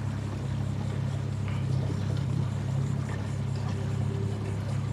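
Motorboat engine running steadily, a continuous low drone.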